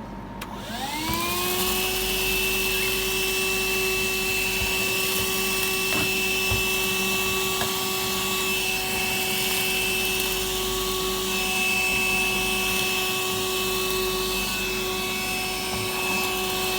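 Rechargeable handheld vacuum cleaner switched on, its motor whine rising in pitch over about a second and then running steadily as it cleans out a bird cage, with a few faint knocks.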